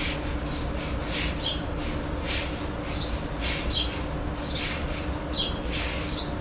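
Milking machine pulsators going in a steady rhythm, a short hiss and a high falling squeak about once a second, over the constant low hum of the milking system's vacuum.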